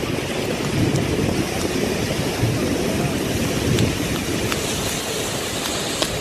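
Desert flash-flood water rushing in a steady, loud churning rush, with a few short sharp clicks in the second half.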